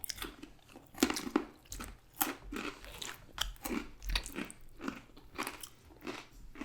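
A person chewing food with a steady rhythm, crunching about twice a second.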